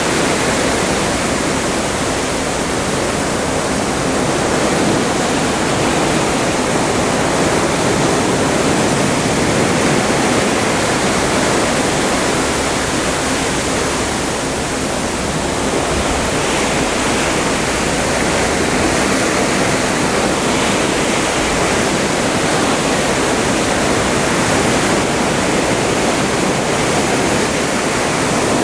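Atlantic Ocean water rushing and churning past a ship under way: a steady, loud wash that swells and eases gently.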